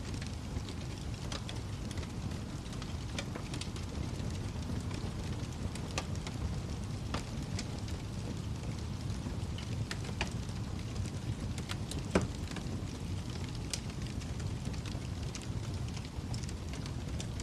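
Wood fire burning in a fireplace: a steady low rumble of flames with scattered sharp crackles and pops, one louder pop about twelve seconds in.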